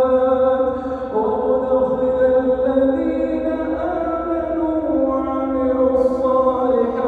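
A male imam chanting Quran recitation in a slow melodic style, holding long drawn-out notes that shift pitch every second or two.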